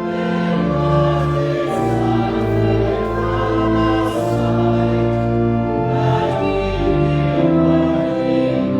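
Voices singing a hymn together with organ accompaniment, held chords moving step by step.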